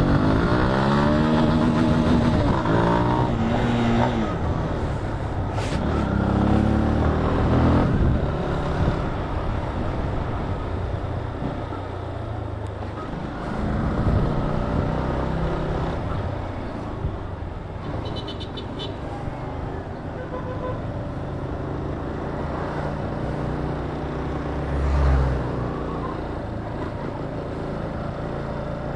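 Yamaha Fazer 250 single-cylinder motorcycle engine under way, its pitch rising as it pulls away, climbing again a few seconds later, then running steadier, with wind and road noise over the microphone.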